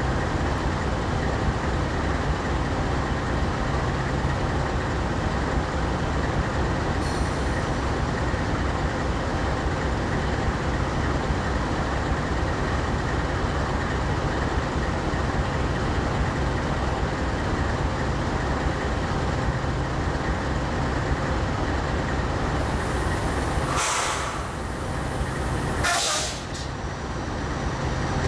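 Train running past with a steady, dense rumble. Near the end come two short hisses about two seconds apart, each followed by a brief drop in the rumble.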